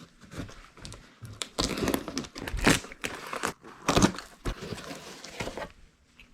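Cardboard shipping box being opened by hand, with irregular rustling, crinkling and crackling of the cardboard and packing that dies away near the end.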